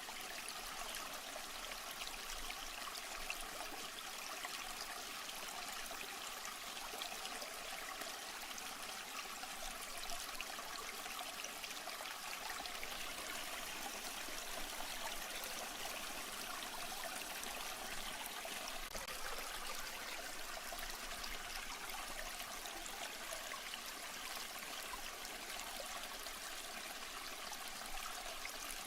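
Steady trickling, running water, even and unbroken throughout.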